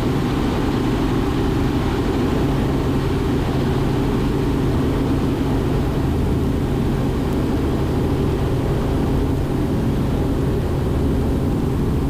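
Cockpit sound of a Robinson R44 Raven II helicopter in flight: the six-cylinder Lycoming piston engine and rotors running in a steady low drone, as heard inside the cabin.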